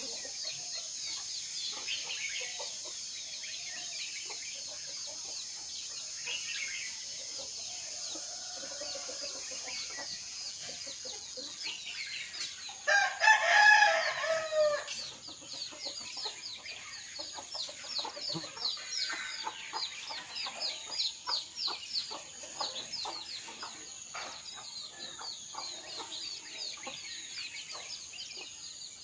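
A rooster crows once loudly, about halfway through, over continuous chirping of small songbirds. A steady high-pitched tone runs underneath.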